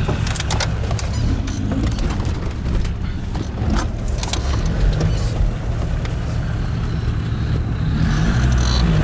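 An off-road 4x4's engine running steadily while the vehicle drives over rough ground, with frequent short knocks and rattles; the engine note rises a little near the end.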